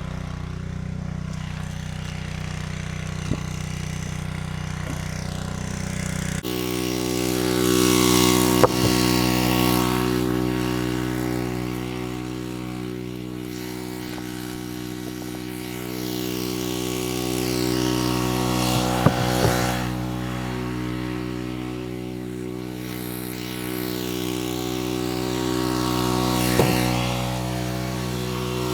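Small gasoline engine running steadily. About six seconds in it shifts abruptly to a higher, steady pitch, with several slow swells in loudness and a few sharp clicks.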